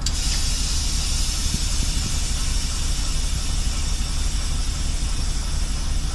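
Compressed air hissing steadily out of a ChME3 diesel shunting locomotive's air brake system; it starts abruptly. Under it, the locomotive's diesel engine runs as a steady low drone.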